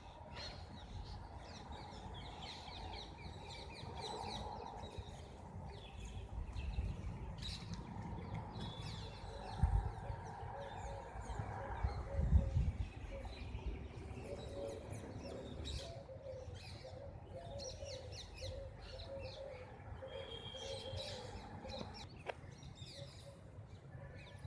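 Birds chirping and calling throughout, with a lower, repeating call from about fourteen seconds in. A few low thumps and rumbles come around ten and twelve seconds in.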